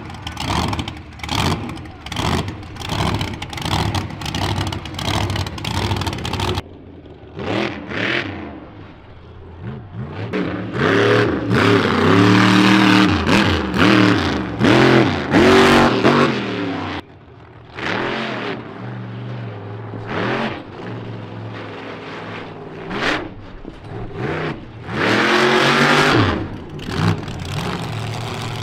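Monster truck engine revving hard, with short, quickly repeated blips for the first several seconds. Then come long revs that climb and fall again and again as the truck runs.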